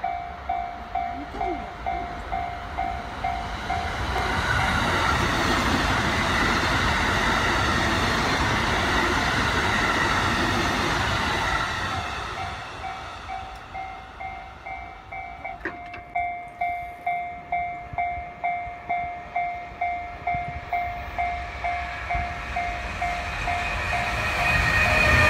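A JR West 323 series electric train passing close by, with a broad rush of wheels and running gear for several seconds. A two-tone electronic bell rings a little over twice a second before and after it, in the pattern of a Japanese level-crossing warning bell. Near the end an EF210 electric locomotive hauling a container freight train comes in, getting louder.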